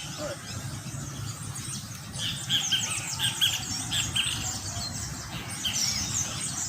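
A flock of small birds chirping and chattering: many quick, high, downward-sweeping chirps overlapping throughout, with a low steady rumble underneath.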